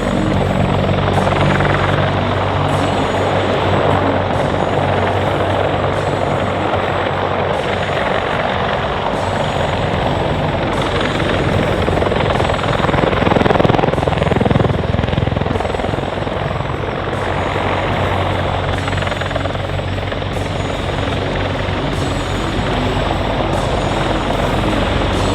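US Navy MH-53E Sea Dragon heavy helicopter flying a display, its rotor and three turboshaft engines making a steady, loud beat and whine. The sound swells to its loudest about halfway through.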